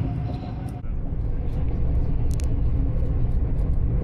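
Passenger train running along the line, heard from inside the carriage as a steady low rumble with faint ticks and rattles; a steady whine stops suddenly about a second in.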